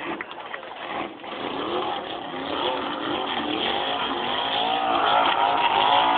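Car engine revving hard at high revs during a burnout, its pitch wavering up and down and growing louder over the first five seconds or so.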